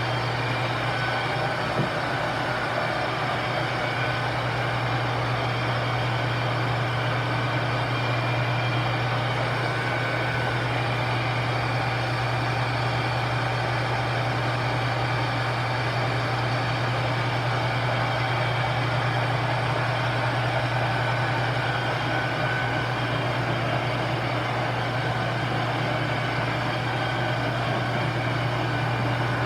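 Metal lathe running steadily, its motor and drive giving a constant low hum with faint steady higher whines.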